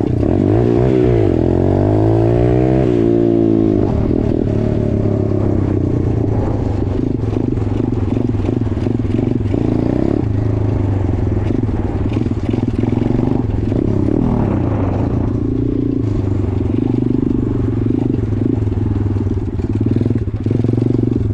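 Straight-piped small motorcycle engine running under way. The revs rise and fall through the first few seconds, then it runs at fairly steady revs.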